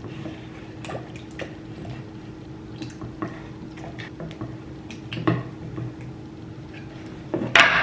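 Scattered light taps and clicks of kitchen utensils and dishes, over a steady low hum, with a louder brief clatter near the end.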